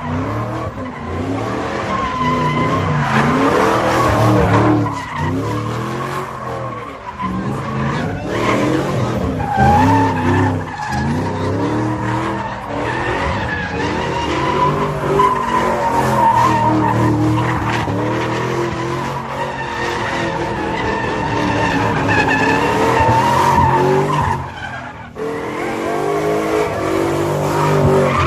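A car spinning donuts, its engine revving up and down while the tyres squeal continuously, with a short lull about three-quarters of the way through.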